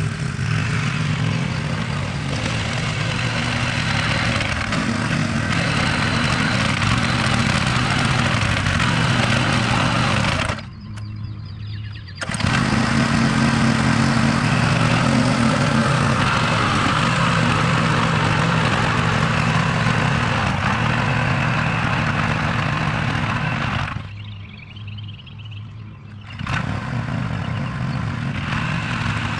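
An engine running steadily at constant speed, cutting out abruptly twice for a second or two.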